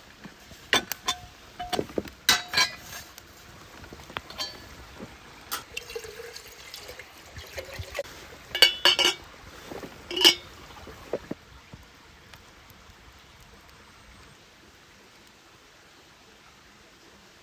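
Liquid pouring with a series of sharp clinks and knocks, some of them ringing briefly like glass, over the first eleven seconds or so, then only faint background.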